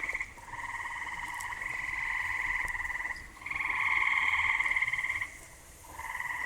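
Frogs calling in long, finely pulsing trills, three of them in a row with short gaps between.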